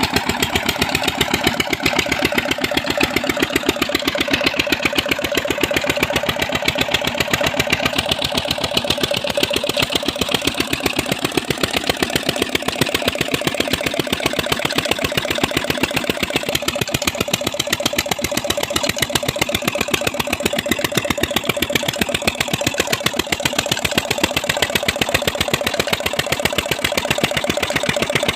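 Old Petter diesel engine driving a tube-well pump, running steadily with a fast, even firing beat.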